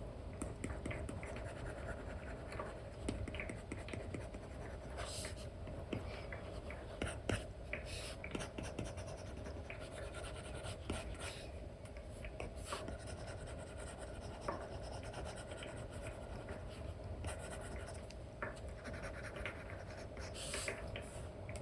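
Stylus nib scratching and tapping across a paper-like screen protector on a tablet in many short, irregular strokes, over a low steady background hum.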